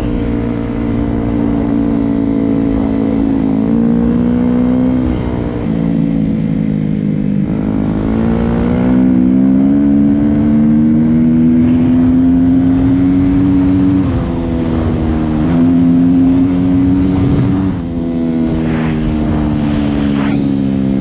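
Yamaha YZ250F four-stroke single-cylinder dirt bike engine pulling under load on a trail ride, its pitch climbing through long stretches of throttle and falling back several times.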